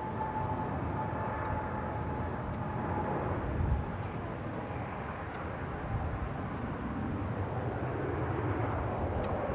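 Jet airliner engines at an airport: a steady rush of engine noise over a low, uneven rumble, with a faint whine that fades after about three seconds and the noise building toward the end.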